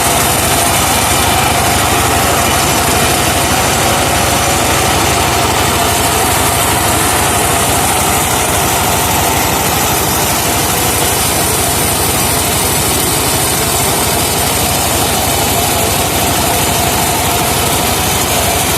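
Engine of a sawmill truck running steadily at a constant speed.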